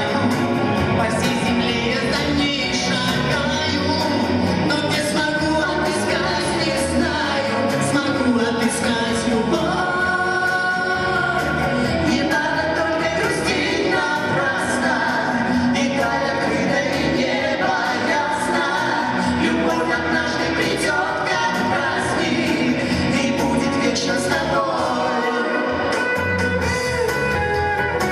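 A band playing a song with singing, with a drum beat marking steady strokes throughout.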